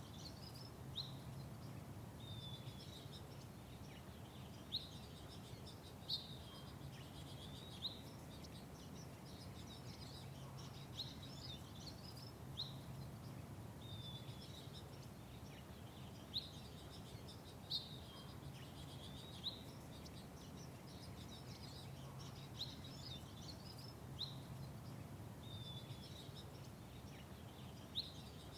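Small birds giving short, sharp chirps every second or so over a steady low background hum.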